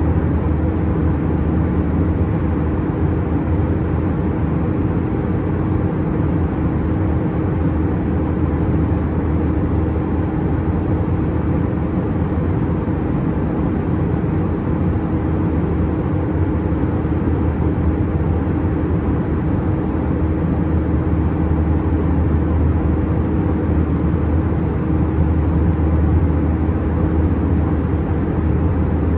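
Steady in-flight cabin drone of an Airbus A320-211, heard inside the cabin: engine noise and airflow over the fuselage, a deep hum with a steady mid tone.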